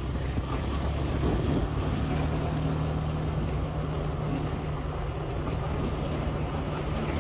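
Motorbike engine running at a steady cruising speed, with a steady low hum that settles in about a second and a half in, over a haze of road and wind noise.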